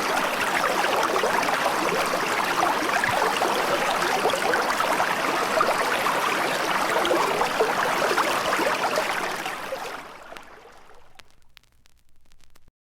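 Running water, a steady stream-like rush that fades out about ten seconds in, leaving a few faint clicks before the sound stops.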